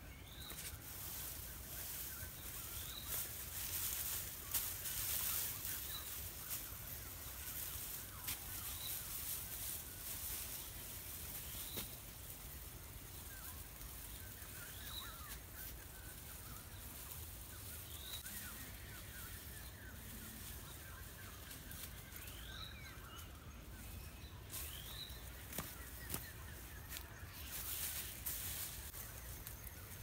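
A bird repeating a short, high, rising call every two to three seconds over a faint chirring background, with intermittent crackling rustles of dry grass thatch being handled.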